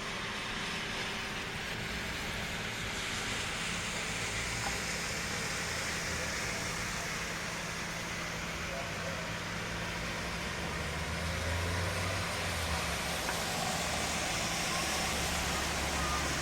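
Steady rain falling, an even hiss, with a low steady hum underneath that grows a little stronger about two-thirds of the way through.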